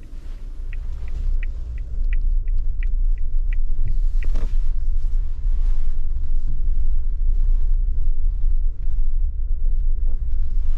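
Steady low rumble of a car driving, growing louder over the first couple of seconds. A run of quick, regular ticks, about three a second, sounds for the first few seconds, followed by a brief rising sweep.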